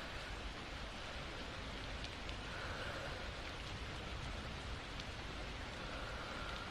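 Steady rain falling, with a few light drip ticks.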